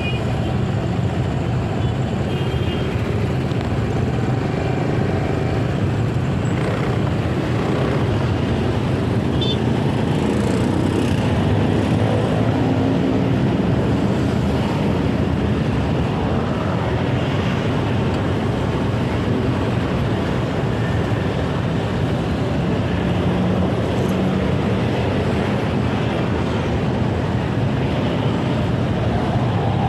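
Steady motorcycle engine and road noise while riding in city traffic, with other vehicles around.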